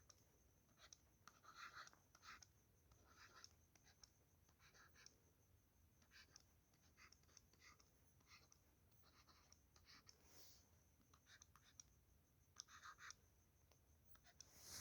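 Faint scratching of handwriting: short, irregular writing strokes with pauses between them.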